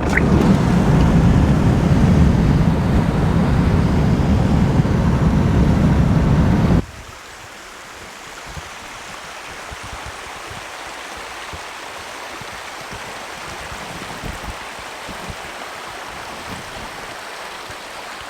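A moving vehicle's road rumble, loud and low, for about the first seven seconds, then an abrupt cut to a rushing stream, steady and even, for the rest.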